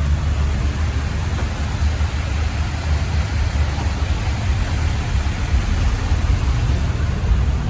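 Steady low vehicle rumble with an even hiss of road or wind noise, as from a vehicle on the move.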